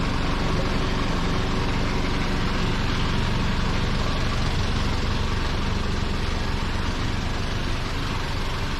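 A motor vehicle's engine running steadily, with a constant noisy hiss over it.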